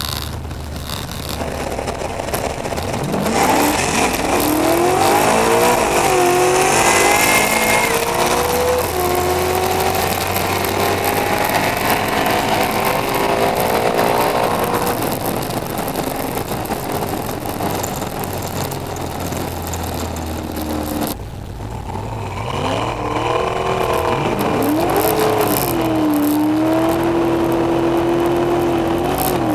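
Pontiac Firebird drag car engine heard from inside the cabin, accelerating hard in a series of rising revs broken by gear shifts, then running at a steadier pitch. About two-thirds of the way in the sound breaks off suddenly, and the engine then revs up and down again before holding a steady note.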